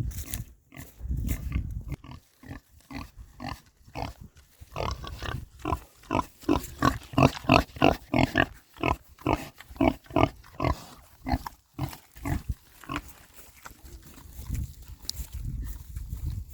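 A sow grunting in a quick, even run of about three grunts a second, loudest in the middle stretch.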